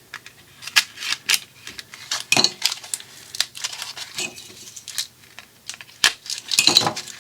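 Stiff plastic blister packaging being cut and pried open: irregular clicks, snaps and crinkling, busiest about two and a half seconds in and again near the end. The plastic is tough.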